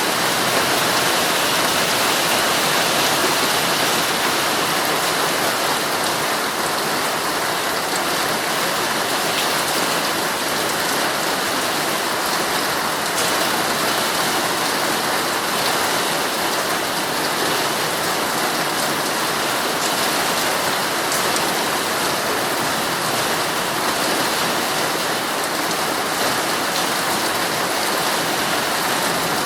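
Heavy rain falling steadily on a tent, heard from inside, an even hiss with fine drop ticks.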